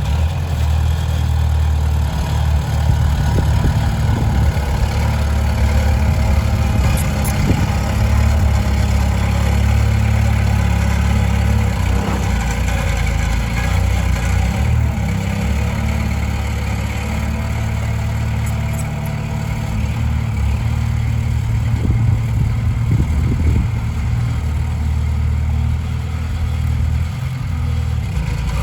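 Komatsu D20P bulldozer's diesel engine running steadily under load, a deep rumble with a few short clanks of metal.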